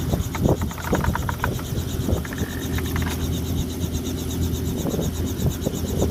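Robinson helicopter winding down after engine shutdown: a steady low hum with an even, fast pulsing whoosh from the main rotor blades. A few short knocks come in the first second and a half, and a brief thin tone sounds about two seconds in.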